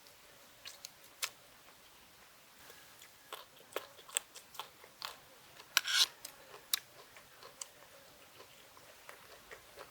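A person chewing and biting food close to the microphone: irregular wet clicks and crisp crunches, with a louder pair of crunches about six seconds in.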